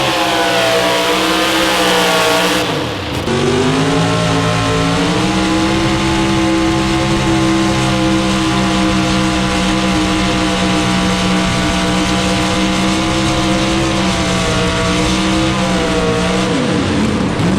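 Competition pulling vehicle's engine running hard at high revs under load. Its pitch dips briefly about three seconds in and recovers, holds steady, then falls away near the end.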